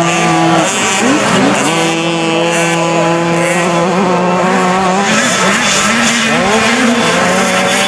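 Several 50cc two-stroke motocross bikes racing, their engines overlapping: one note held steady for a few seconds while others rise and fall as riders open and close the throttle.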